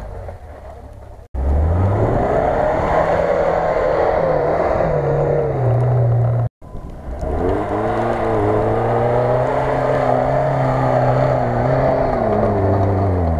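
Lada Niva four-cylinder engines revving hard under load on a snowy, muddy climb, the pitch rising and falling with the throttle. The sound cuts out briefly twice, about a second in and halfway through, and a different Niva's engine picks up each time.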